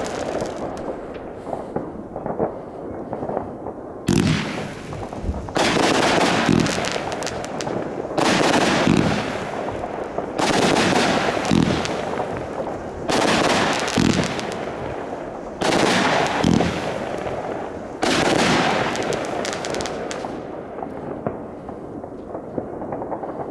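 Consumer fireworks battery firing shot after shot, a sudden bang every two to three seconds, each followed by a dense crackle that trails off.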